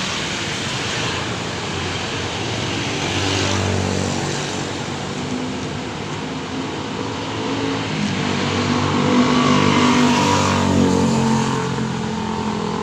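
Motor vehicle engine running on a road over steady traffic noise, growing louder and rising in pitch about eight seconds in.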